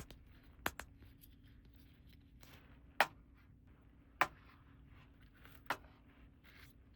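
Light, scattered clicks and taps of toy pieces and packaging being handled during an unboxing, with the two strongest clicks about three and four seconds in.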